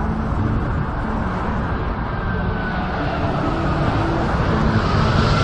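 Boeing 747 jet airliner on low final approach, its four jet engines giving a steady, dense roar that grows louder near the end as it passes close overhead. A faint thin whine slides in pitch through the roar.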